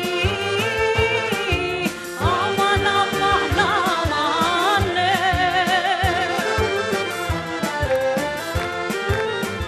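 Shkodran urban folk song performed live: a female voice sings an ornamented, wavering melody over a band with a regular drum beat.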